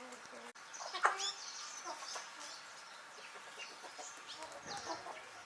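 Chickens clucking and calling, many short calls overlapping, with a louder call about a second in.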